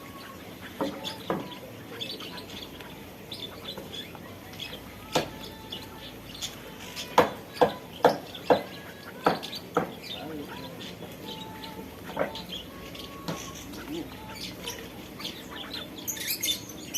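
Small aviary birds chirping and calling in short notes. About halfway through comes a run of sharp, loud taps.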